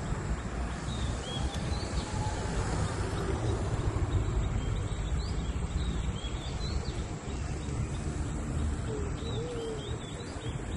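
Birds chirping in short, high calls every second or two, with a couple of lower gliding calls near the end, over a steady low rumbling background noise.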